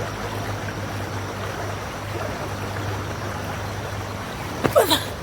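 River water flowing steadily, with one brief sharp sound near the end that is the loudest moment.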